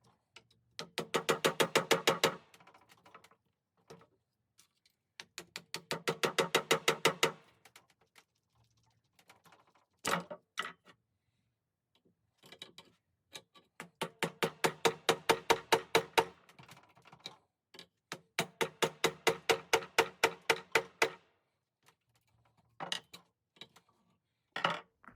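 Rapid series of short strokes from hand work on the hatchet, about eight to ten a second, in bursts of one to three seconds with short pauses between.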